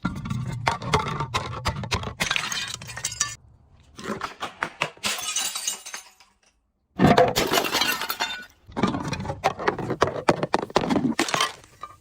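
Glass being crushed and shattered: dense cracking and crunching in several bursts with short pauses, the loudest burst about seven seconds in, right after a moment of silence.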